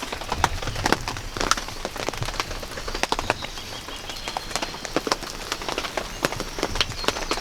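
Rain falling, with single drops striking in irregular sharp ticks several times a second over a steady soft hiss.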